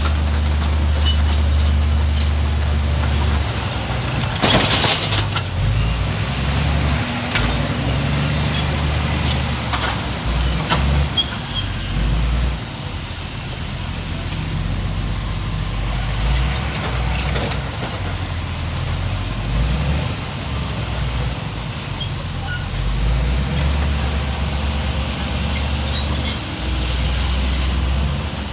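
Heavy diesel earthmoving machinery working: a deep engine rumble that rises and falls with the load, with scattered clanks and a short loud burst of noise about four seconds in.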